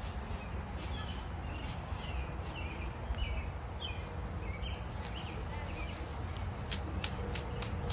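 A bird sings a run of short, quick chirps, several a second, over a steady low rumble of outdoor background. Near the end come a few sharp clicks and rustles as coriander plants are pulled up by hand.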